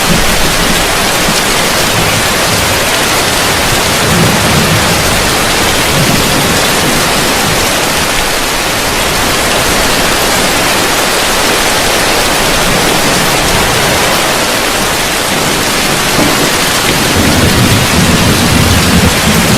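Heavy rain falling steadily on a roof, with low rolls of thunder about four seconds in and again building near the end.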